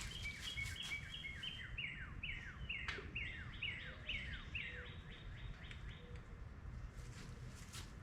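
A songbird singing a long run of quick notes, each sliding down in pitch, repeated about three times a second; the song stops about a second before the end. A couple of sharp knocks sound under it, one about three seconds in and one near the end.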